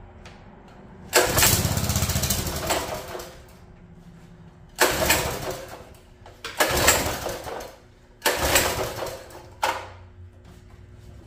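Predator small engine on a mini bike being pull-started four times, each pull cranking it over for a second or two without it catching: it is starved of fuel, as the owner suspects.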